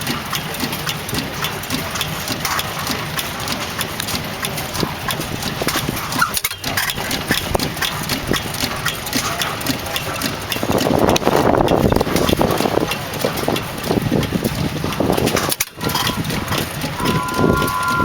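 Restored 4 HP McVicker tank-cooled hit-and-miss engine running, with a steady rhythmic clatter of knocks and clicks from its valve gear and igniter as it fires and coasts. It gets louder for a couple of seconds a little past the middle.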